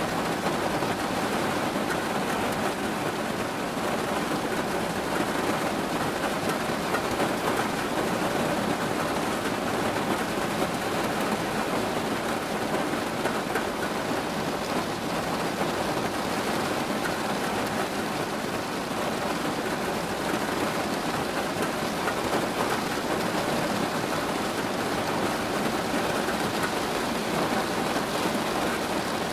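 Steady, continuous rain falling on a surface, an even patter.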